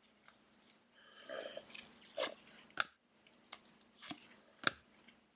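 Trading cards being handled at a table: a few sharp clicks and taps of cards and card holders being picked up and set down, with a brief faint squeak about a second in.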